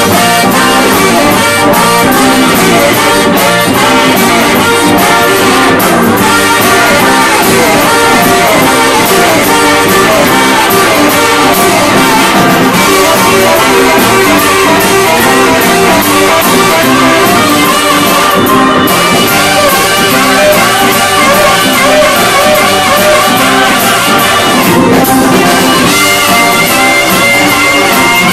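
Live rock band playing an instrumental break, with brass horns carrying the melody at a steady, loud level.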